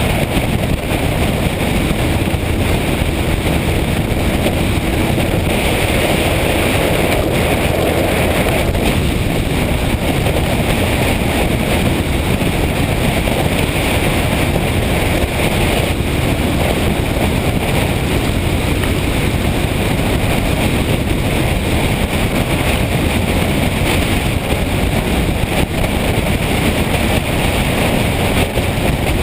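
Motorcycle on the move, its engine and road noise running steadily under loud wind rushing over the microphone.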